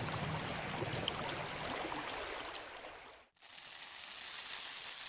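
Swamp ambience: a steady watery hiss with a few faint chirps, which cuts out briefly about three seconds in and returns as a brighter, higher hiss.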